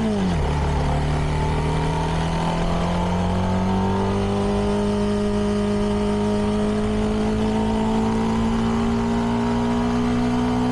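CFMoto 300NK motorcycle's single-cylinder engine through its stock exhaust, shifting up just after the start and then pulling steadily, the engine note rising slowly as the bike gains speed.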